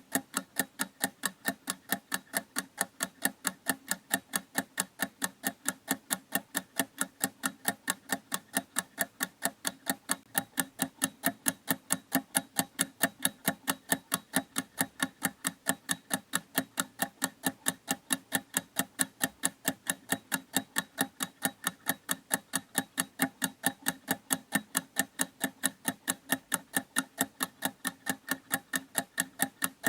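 Clock ticking steadily, with crisp, evenly spaced ticks several times a second.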